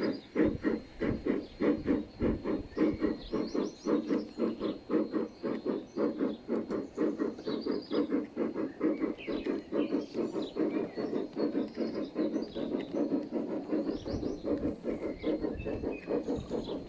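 Large-scale model steam locomotive's sound unit chuffing in an even rhythm of about five beats a second, with short bird chirps over it.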